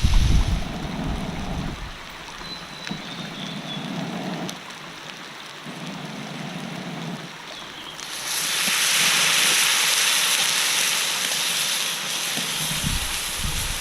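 Outdoor noise: wind buffeting the microphone in uneven low rumbles, then a loud steady rushing hiss from about eight seconds in that stops abruptly near the end.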